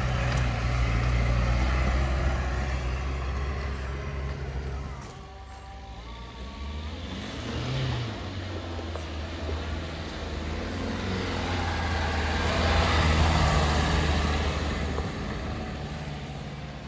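Off-road vehicles running over a rough forest dirt track. First comes the Lada Niva 1.7's engine with a deep, steady hum. After a drop about five seconds in, the Dacia Duster 4x4's engine and tyre noise build up as it climbs a rutted slope, loudest a little past the middle, then fade.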